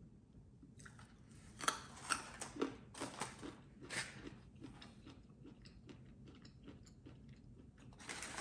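Close-up crunching and chewing of a raw carrot stick dipped in ranch: a run of sharp crunches about two seconds in, then softer chewing. A brief rustle near the end.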